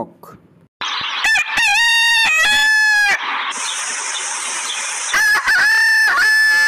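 Rooster crowing twice: a full multi-part cock-a-doodle-doo about a second in, and a second one starting about five seconds in that runs past the end.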